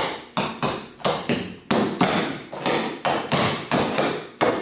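Clogging shoes' metal taps striking a hard floor in a dance step sequence, about three sharp clacks a second in an uneven rhythm, danced without music.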